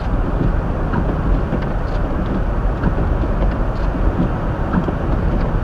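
Steady driving noise inside a 2023 Hyundai Elantra's cabin as it moves at about 25 mph over a snow-covered road: tyres running through snow over a low engine and road hum, with a few faint scattered clicks.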